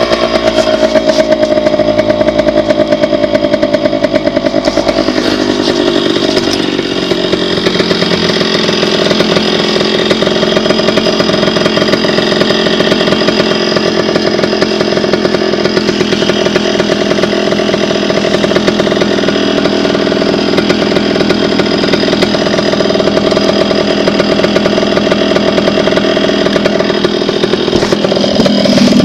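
Dirt bike engine running steadily under way, its pitch easing down over the first few seconds, then holding fairly even with small changes in speed.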